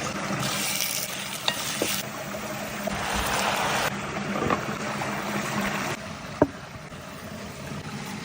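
Food sizzling while being stirred in a pot over a fire, with a few sharp utensil clicks and one loud knock about six and a half seconds in. The sizzle changes abruptly a few times.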